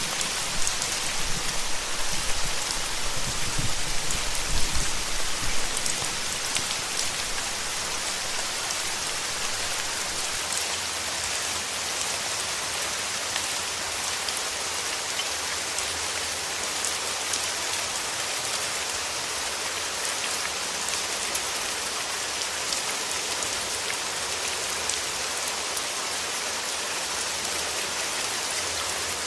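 Steady rain falling: a dense, even hiss of drops on a surface. A low rumble swells under it in the first few seconds.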